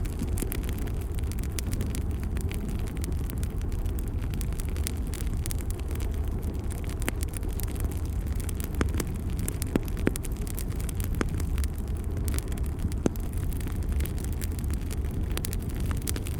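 Bonfire burning: a steady low rumble of flames with frequent irregular crackles and pops of burning wood, a few of them sharper than the rest.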